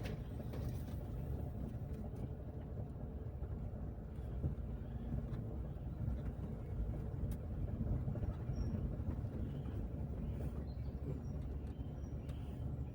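Car driving along a road: a steady low rumble of tyres and engine, with a few faint clicks.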